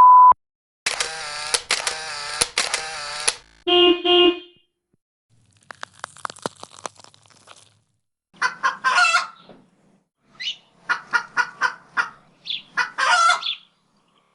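A run of separate stock sound effects one after another: a brief beep, a wavering rush lasting a couple of seconds, a short honk, a patter of clicks, then a series of short squawking calls like clucking chickens.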